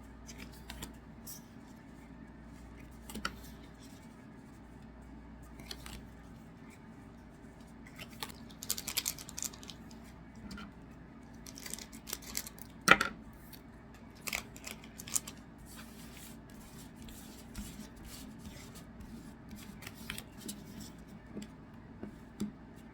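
Trading cards and their packs being handled and stacked: scattered light taps, slides and short rustles, with one sharper click about halfway through.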